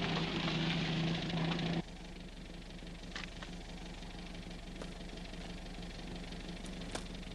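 Background music cuts off abruptly about two seconds in, leaving a car engine idling steadily. A few sharp clicks from the car door being opened come over it.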